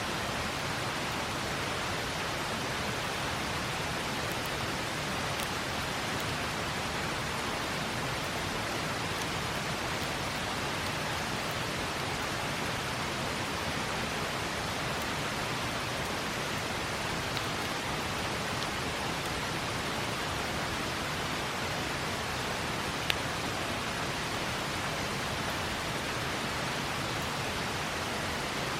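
River water rushing in an even, unbroken hiss, with a few faint crackles from a campfire, one sharper pop about three-quarters of the way through.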